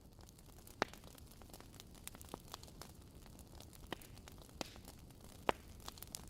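Fireplace crackling: a quiet steady hiss of burning with irregular sharp pops and snaps, the loudest about a second in and again about five and a half seconds in.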